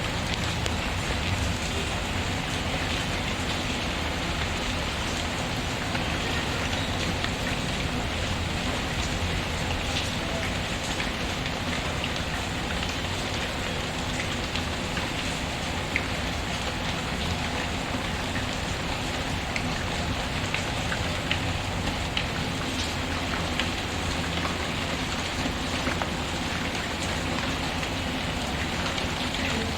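Steady rain pattering, with scattered sharp crackles from a wood fire in a fireplace.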